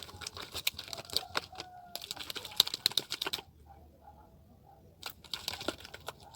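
Sticky slime being squeezed and stretched by hand, making rapid wet clicks and crackles that stop for a moment partway through and pick up again near the end; the slime is still too sticky.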